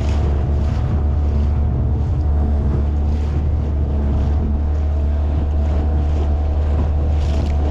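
Strong wind buffeting the microphone as a steady low rumble, with soft swells of hiss about once a second from waves washing against the boat.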